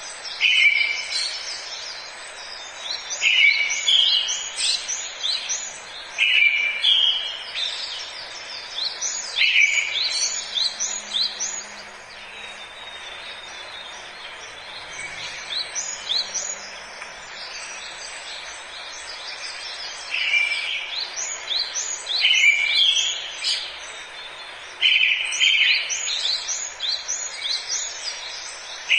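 Forest songbirds singing. One phrase repeats every few seconds: it opens on a lower note, steps up, and runs into a string of quick high notes. The phrases pause for about ten seconds in the middle, over a steady hiss of forest ambience.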